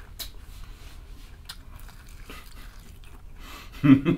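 Close-up chewing and biting of a crispy fried chicken wing, with small wet, crunchy clicks. A short louder vocal sound comes near the end.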